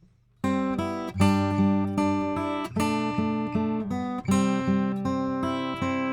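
Acoustic guitar strumming chords, starting about half a second in, with a sharp attack on each strum: the dry, uncompressed guitar, the compressor bypassed.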